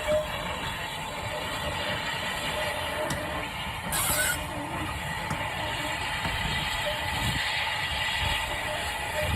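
A train running on a heritage railway line, a steady low rumble with a brief hiss about four seconds in.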